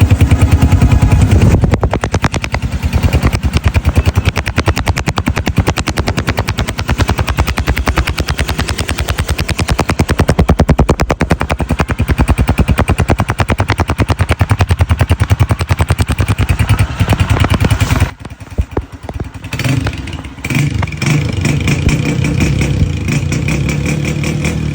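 Motorcycle engine running fast, its exhaust firing in rapid, even pulses. The sound drops out briefly about eighteen seconds in, then comes back lower and steadier near the end.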